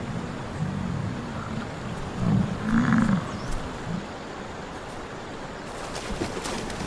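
American bison grunting: several low, drawn-out grunts from the herd, the loudest about three seconds in.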